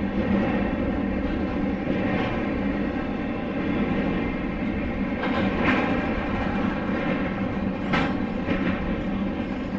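Freight train rolling past: a steady rumble of wheels on rail, with a few sharp clanks about five and eight seconds in.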